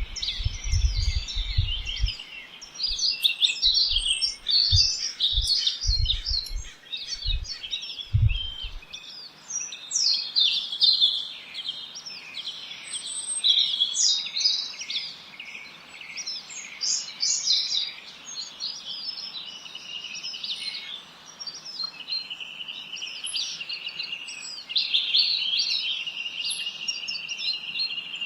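A chorus of several songbirds chirping and singing at once, with a continuous mix of short high chirps and trills and a steady high trill in the later part. Irregular low thumps sound under the birdsong during the first nine seconds or so.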